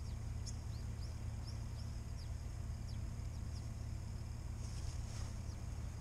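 A small bird giving a quick series of short, high chirps that each slide downward, stopping about three and a half seconds in, over a steady low hum.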